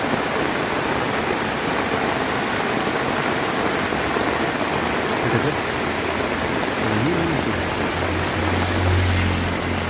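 Heavy rain pouring down steadily, a dense even hiss. A low rumble swells in the last couple of seconds and peaks just before the end.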